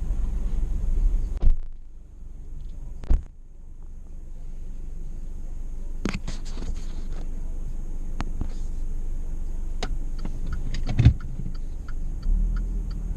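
Car cabin with the engine idling: a heavy thump about a second and a half in and another at about three seconds as the door shuts, scattered knocks, a loud thump near eleven seconds, then the turn signal ticking steadily, about three ticks a second, near the end.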